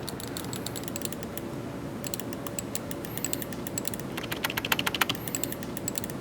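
Typing on a computer keyboard: a run of quick key clicks that thickens into a fast flurry a little past the middle.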